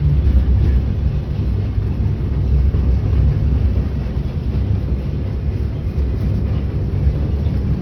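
Steady low rumble of a steam railroad train rolling along the track, heard from aboard a passenger car.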